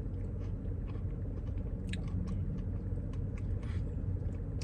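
A person chewing a mouthful of Blizzard soft serve with chocolate chunks and pie pieces, with small wet mouth clicks over a steady low hum.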